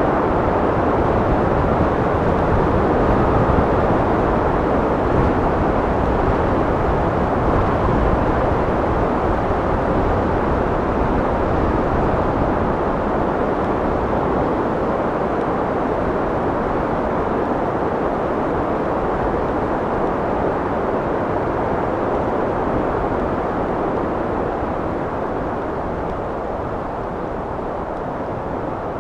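Steady wind blowing, a dense low rushing noise that eases off slightly toward the end.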